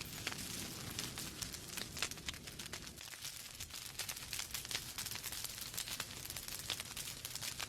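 Wood fire burning in a fireplace: logs crackling with irregular sharp pops and snaps over a steady low rumble of flames.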